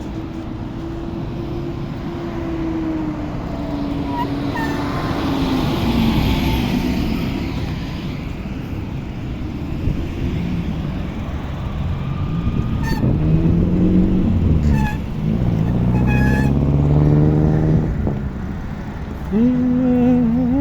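Road traffic passing: the engines of cars swell and fade as vehicles go by, over a steady low road rumble.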